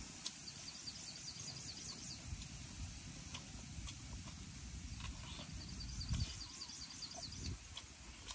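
Outdoor rural ambience: a bird calls in a quick run of short high notes near the start and again about five and a half seconds in, over a low rumble. Occasional sharp clicks come as roasted frogs are picked apart and chewed.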